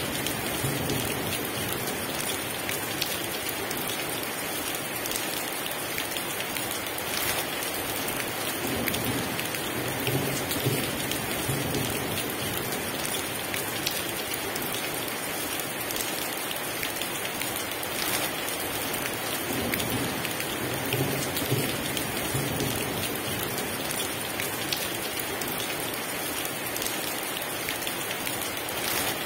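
Heavy rain falling steadily, a dense even hiss with drops pattering on a surface, and low rumbles of thunder swelling and fading every ten seconds or so.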